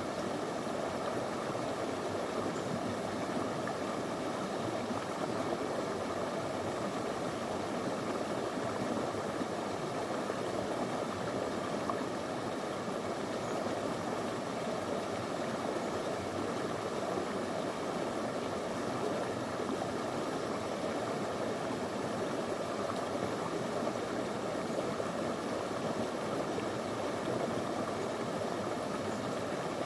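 A small, clear river flowing over stones: a steady, unbroken rush of water.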